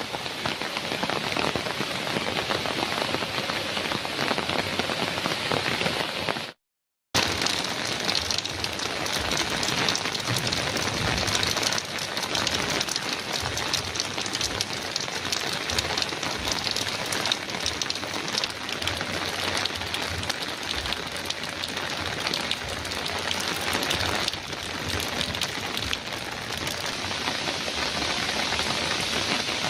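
Heavy rain pattering densely and steadily on a metal roof. The sound cuts out completely for about half a second some seven seconds in, then resumes unchanged.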